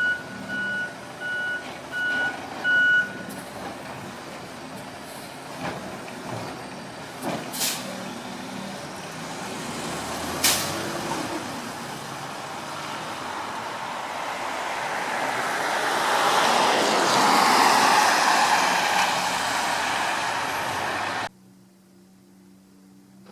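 Garbage truck backing up, its reversing alarm beeping steadily for the first few seconds, then a sharp air-brake hiss about ten seconds in. A rush of noise then swells up and cuts off abruptly near the end.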